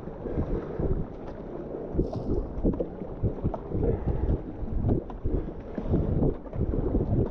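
Whitewater river noise from a kayak running rapids, mixed with wind buffeting the microphone: a muffled, low rumble with irregular thumps.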